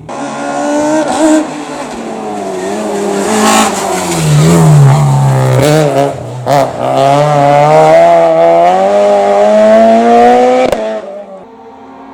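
Race car engine revving hard through a slalom course: the pitch climbs under acceleration, drops briefly twice a little past the middle on lifts and gear changes, then climbs steadily at full loudness before cutting off sharply about eleven seconds in and fading away.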